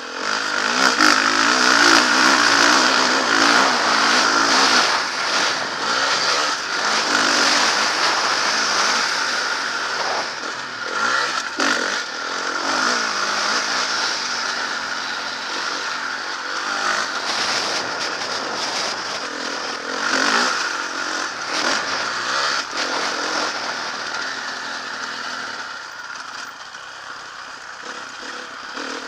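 Motocross bike engine being ridden hard, revving up and easing off again and again, with the rough rasp of the exhaust; loudest in the first few seconds and a little quieter near the end.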